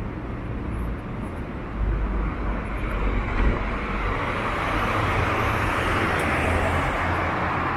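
City street traffic: motor vehicles passing with engine rumble and tyre noise, the noise swelling about halfway through.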